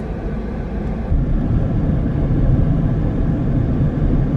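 Car driving, a steady low rumble of road and engine noise that grows louder about a second in.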